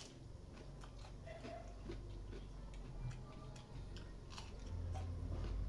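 A person chewing and biting food close to a clip-on microphone: soft, irregular wet mouth clicks. A low hum comes in near the end.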